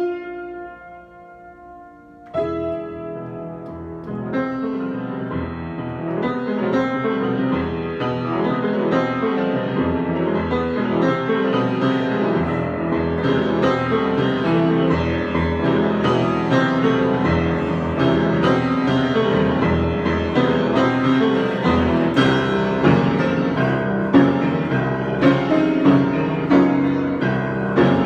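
Solo piano improvisation: a chord struck at the start rings and fades, then about two seconds in the playing resumes and builds into a dense, gradually louder passage, with accented chords near the end.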